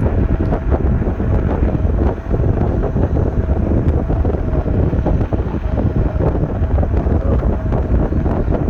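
Wind buffeting a chest-mounted camera microphone on an electric scooter riding at about 20 mph: a loud, steady low rumble, with a faint steady whine underneath.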